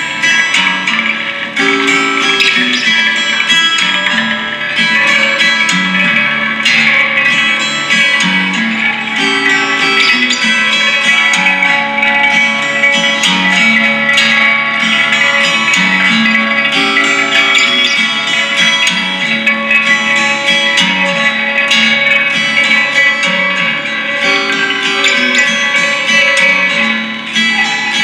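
Live guitar music: plucked strings playing a repeating low figure under held higher notes.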